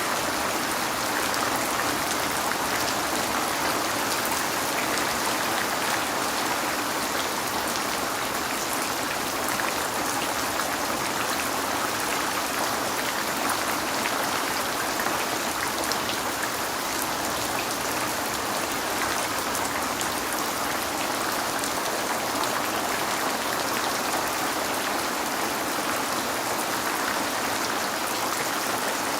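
Steady rain falling on a window: a dense, even hiss dotted with many small drop ticks.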